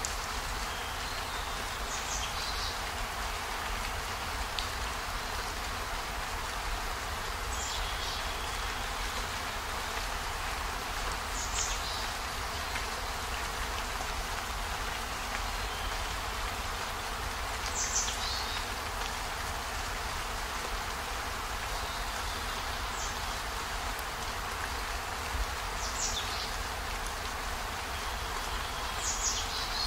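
Steady rain falling, an even hiss with a low rumble beneath it. About seven brief, sharp high sounds, each falling slightly in pitch, stand out at irregular intervals of a few seconds.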